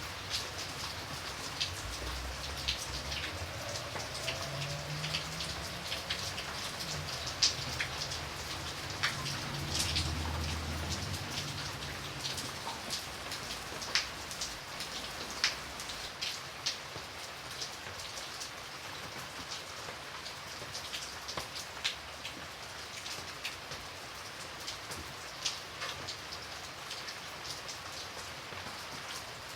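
Steady rain, with sharp individual drips striking a surface over the patter. A low rumble runs underneath for about the first twelve seconds, then fades out.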